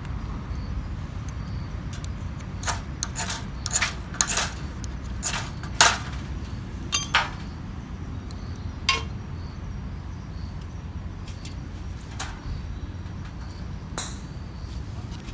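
A run of sharp clicks and knocks, like wooden and metal camp gear being handled and set down. They come thick for a few seconds, then only now and then, over a steady low rumble.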